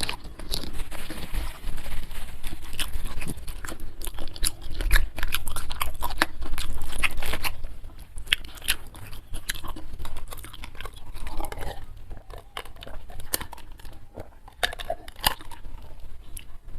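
A person chewing and biting food close to the microphone, with many sharp crunches.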